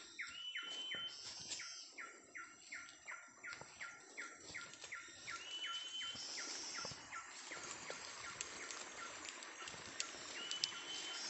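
Wild bird calling: runs of quick down-slurred whistles, about four a second, in three bursts, with a higher level note now and then. Faint rustling and small clicks near the end.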